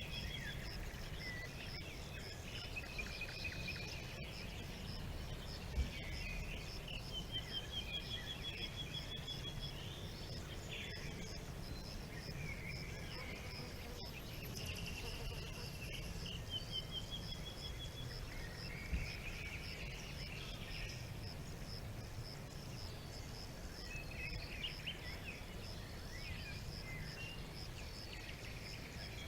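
Songbirds singing in varied phrases, one of them a rapid trill of repeated notes heard three times, over a steady pulsing insect chirp and a low background rumble.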